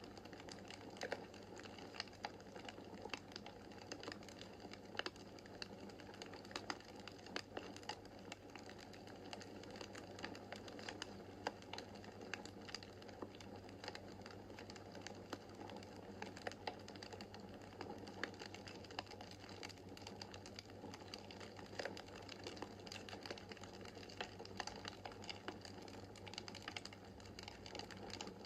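Wood fire crackling in a fireplace: irregular small pops and snaps over a steady soft background of the burning flames.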